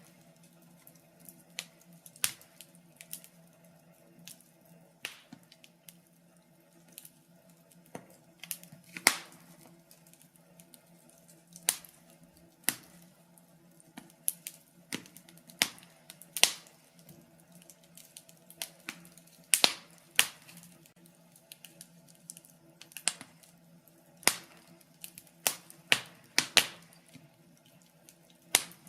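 Wood fire crackling in a fireplace: sharp irregular pops and snaps a second or so apart, over a faint steady low hum.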